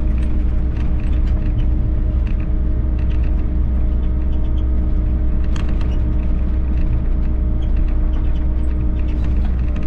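Volvo EC60E mini excavator's diesel engine running steadily under work, with scattered clicks and scrapes from the bucket and hydraulics as it spreads and levels stone dust.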